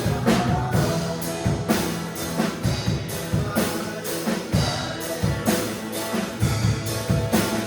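Worship band music with a steady drum beat under the instruments.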